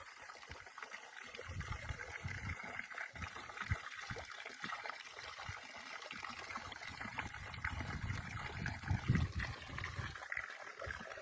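Water trickling and gurgling in a stream, with irregular low rumbles of wind on the microphone.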